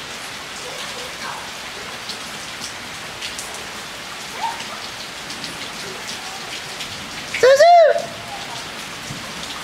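Steady rain falling on surfaces, with drops ticking. About seven and a half seconds in, a loud, short high squeal rises and falls in pitch.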